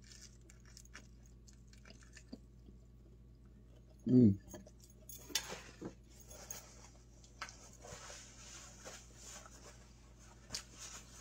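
A person chewing a mouthful of bacon, lettuce and tomato sandwich, with soft wet, clicky mouth noises. About four seconds in there is one short, loud hummed "mm" through the closed mouth.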